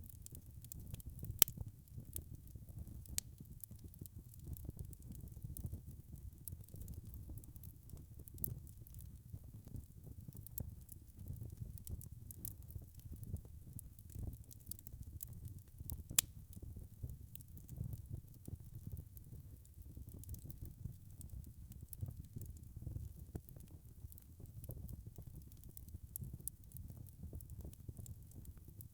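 Log fire burning in a fireplace: a steady low rumble of flames with frequent small crackles and pops. Two louder pops stand out, one about a second and a half in and one a little past halfway.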